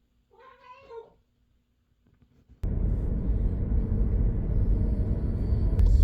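A house cat meows once, a short call under a second long. About two and a half seconds in, a loud, steady low rumble of car road noise starts abruptly and runs on.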